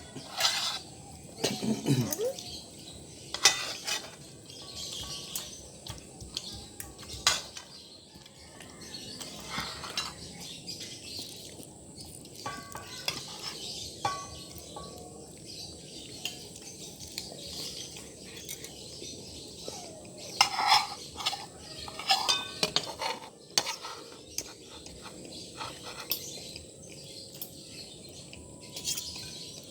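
Spoon and fork clinking and scraping against a plate, in irregular sharp clinks, busiest about two-thirds of the way through.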